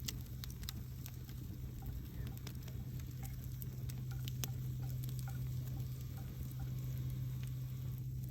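Campfire crackling: irregular sharp snaps and pops of burning wood over a steady low hum.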